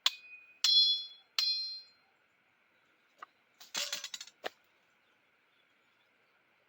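Three sharp metallic strikes about two-thirds of a second apart, each ringing on briefly in clear tones. About four seconds in comes a short rattling clatter.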